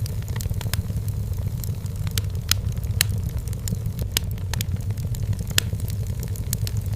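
Wood fire burning in a fireplace, crackling with frequent irregular sharp pops over a steady low rumble, a few pops louder than the rest.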